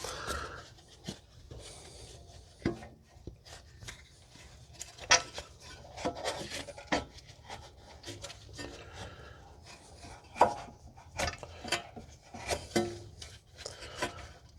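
Irregular knocks, clinks and scrapes of hand tools against steel suspension parts during work on a car's front lower control arm and ball joint, with the sharpest knocks about five, six, seven and ten and a half seconds in.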